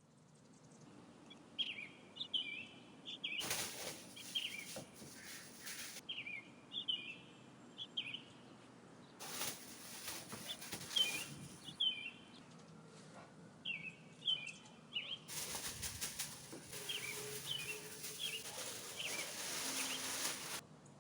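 A small songbird singing short phrases of quick high chirps, repeated every few seconds, over a rushing noise that comes and goes in several long stretches.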